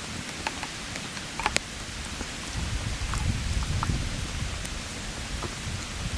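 Wood campfire crackling: a steady hiss with scattered sharp pops, under a low rumble that comes up about two and a half seconds in.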